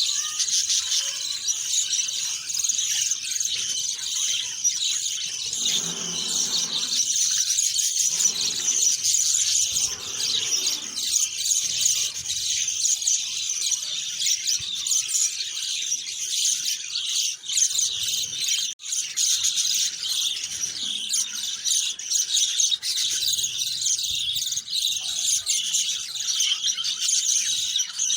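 A dense chorus of many small birds chirping together without a break, a constant high twittering.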